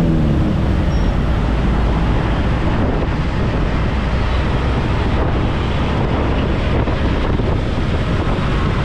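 Wind buffeting the microphone of a camera riding on a moving motorbike, a steady low rumble with the bike's road and engine noise underneath.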